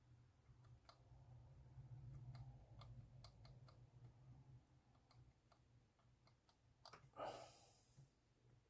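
Near silence over a low steady hum, with faint scattered clicks and taps from small hand work with a toothpick on a model. A brief breathy rustle comes about seven seconds in.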